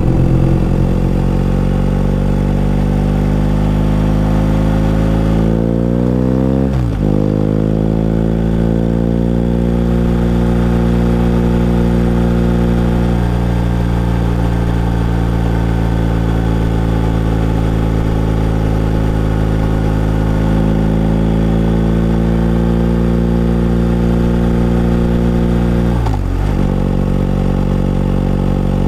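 BMW R1250 GS motorcycle's boxer-twin engine running steadily under way, heard from on board. The engine note dips sharply and picks up again twice, about seven seconds in and again near the end.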